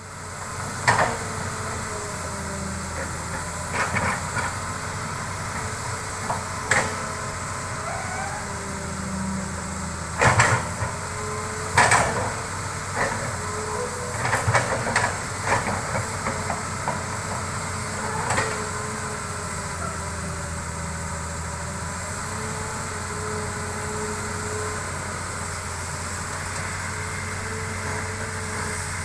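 Hitachi hydraulic excavator working: a steady diesel engine drone with faint hydraulic whine rising and falling. About a dozen sharp knocks and clanks fall irregularly through the first two-thirds, the loudest around ten and twelve seconds in.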